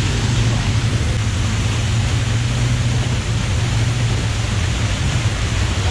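Quad bike engine running steadily under way, a constant low drone under a loud, even rushing noise.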